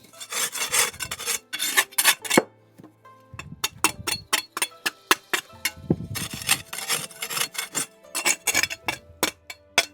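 Bricks being handled and stacked, scraping against one another with many sharp clacks, over steady background music.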